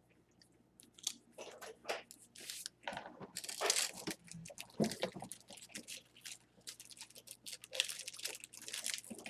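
Crisp chips being bitten and crunched in the mouth close to the microphone: many short, irregular crunches.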